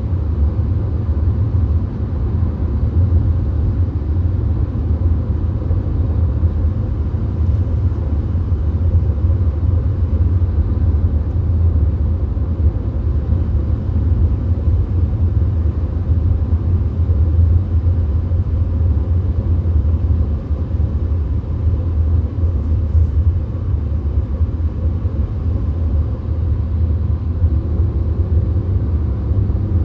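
Steady low road and engine drone heard inside a VW Golf's cabin cruising on a motorway, with tyre noise over the rumble. A faint steady hum comes in near the end.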